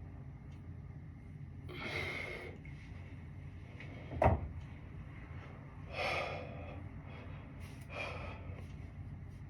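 A person's hard breaths, three short puffs a few seconds apart, with one sharp knock near the middle, over a steady low hum.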